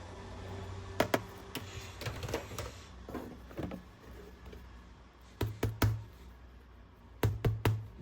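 Sharp plastic clicks and knocks from toys being handled, scattered at first, then two quick runs of three clicks each in the second half.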